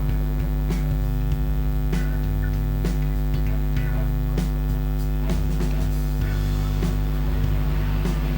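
Steady electrical mains hum, with light ticks every half second to a second.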